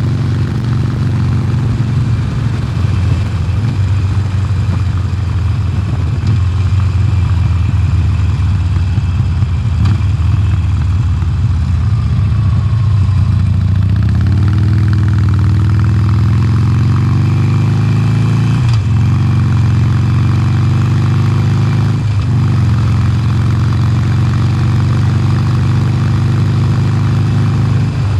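A 2020 Harley-Davidson Sportster Forty-Eight's 1200 cc air-cooled V-twin running on its stock exhaust. It runs steadily at first, then about halfway through it climbs in pitch under acceleration, with two short drops a few seconds apart as it shifts up a gear.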